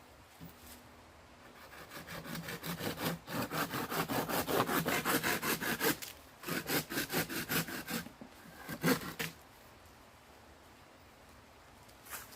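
Hand saw cutting through wood in quick, even strokes, about five a second. It goes in two runs with a brief pause between them, then a couple of final strokes about nine seconds in.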